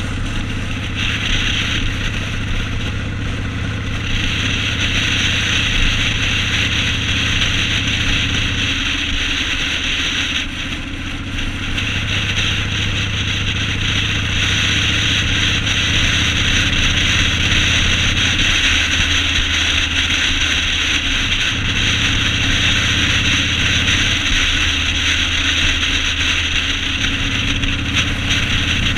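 Yamaha Road Star 1600 air-cooled V-twin engine running steadily under way, with a broad steady hiss over it. The engine note shifts three times, about a third of the way in, about two-thirds in and near the end.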